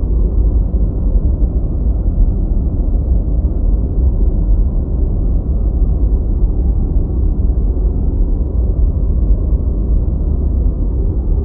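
Steady, unchanging deep white noise: a low, rumbling hiss with most of its weight in the bass and almost no high treble.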